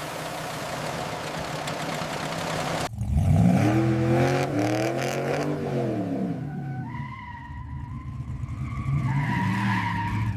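A car engine running and revving, its pitch falling and rising, after a steady hiss that cuts off suddenly about three seconds in.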